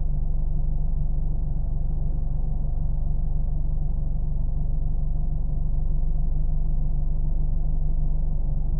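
Steady, low car engine hum and rumble, heavily muffled, with no changes in speed or load.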